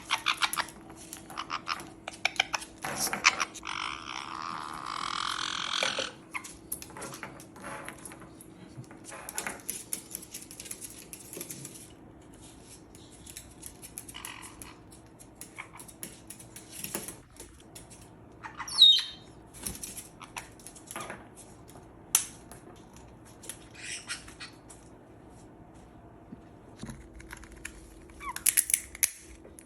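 Parrots making occasional squawks and chirps among scattered sharp clicks and taps, with one loud squawk about nineteen seconds in. A faint steady hum lies underneath.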